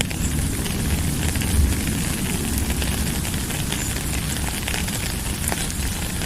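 Steady rain falling, a constant hiss over a deep rumble, with many small drop ticks scattered through it.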